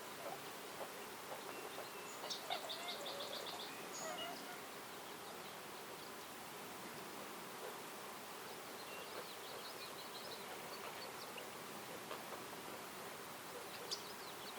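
Forest songbirds calling: a fast high trill about two seconds in, then scattered chirps and short phrases through the middle and near the end, over a steady background hiss of the outdoors.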